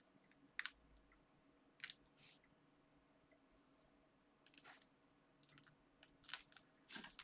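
Faint handling of paper and card: a few short crisp taps and rustles, growing busier over the last few seconds.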